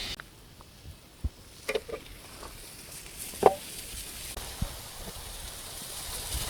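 A few scattered light clicks and knocks, the sharpest about halfway through, over a faint steady hiss that grows toward the end.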